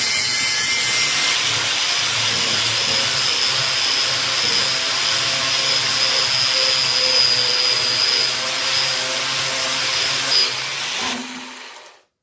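A power tool running steadily with a continuous whine, which fades out near the end.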